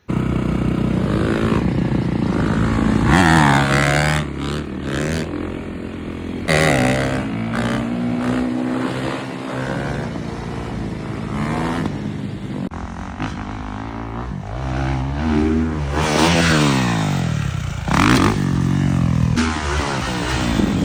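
Motocross dirt bike engines revving hard, the pitch climbing and falling again and again as the throttle is opened and closed for the jump. The sound changes abruptly a couple of times, as between separate clips.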